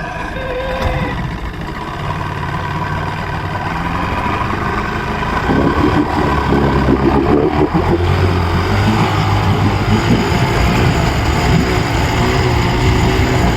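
Johnson 90 hp outboard motor running in neutral just after a cold start, its speed raised for warm-up. The engine note climbs gradually, steps up louder about five and a half seconds in, then holds steady.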